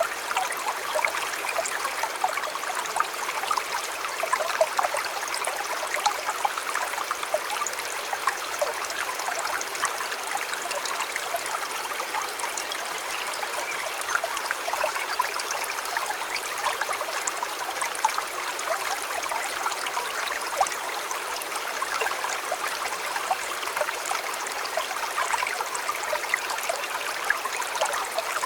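A shallow river flowing steadily, with many small splashes and trickles over the running water.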